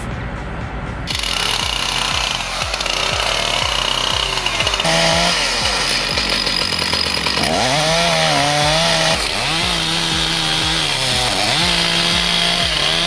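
Chainsaw running and cutting wood, its engine pitch dropping and rising again as it works, with abrupt changes in the sound about a second in and again near five seconds.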